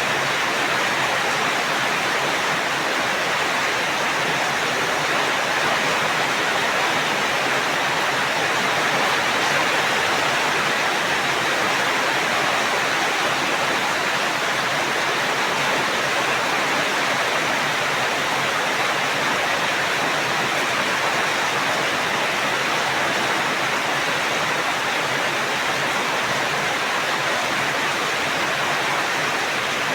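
Steady rain, a dense even hiss with no single drops or thunder standing out.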